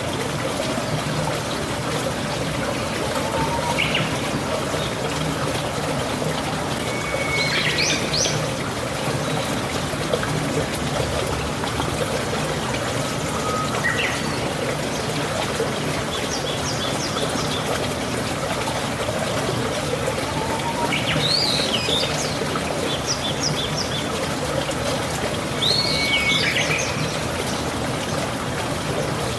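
Steady rain falling, an even hiss of water, with a bird calling over it in short chirps and rising and falling whistled notes, about five times at intervals of several seconds.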